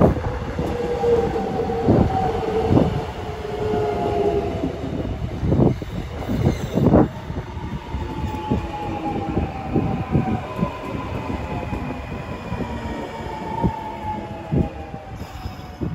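Gyeongui–Jungang Line electric commuter train entering a station and passing alongside the platform as it slows. The wheels thump irregularly over the rail joints, under a whine that falls slowly in pitch as the train brakes.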